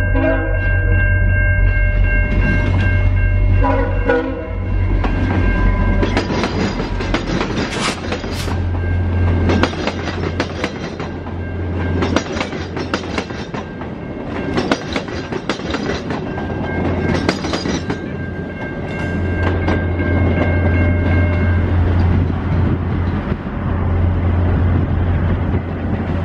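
Diesel locomotive passing a level crossing: its horn is held for the first few seconds and sounded again in the second half, over a steady engine rumble. In between, the wheels clatter sharply over the rail joints.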